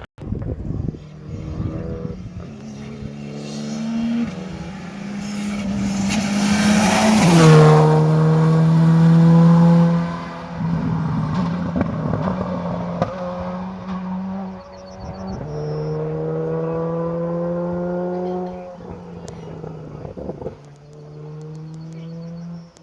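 Rally car accelerating hard past, its engine revving up and dropping back at each gear change. It is loudest as it goes by about seven seconds in, then keeps pulling through further gear changes as it moves away.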